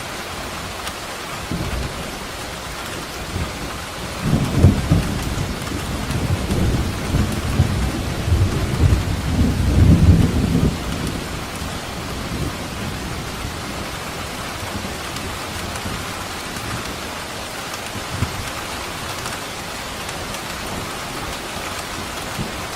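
Steady rain falling, with a roll of thunder that builds about four seconds in, peaks around ten seconds and rumbles away over the next second or two.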